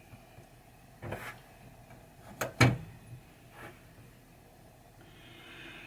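A few handling noises as parts are worked on: a soft knock, then two sharp clicks close together about two and a half seconds in, the loudest, and a fainter knock after them.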